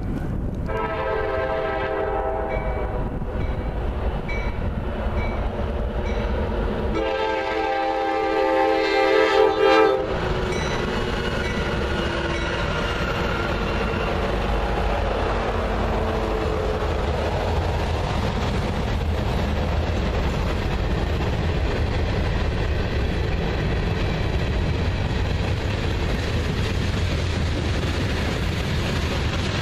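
A locomotive air horn sounds twice: a blast of about two and a half seconds, then a louder one of about three seconds, several notes sounding together as a chord. After that, a train passes with a steady rumble.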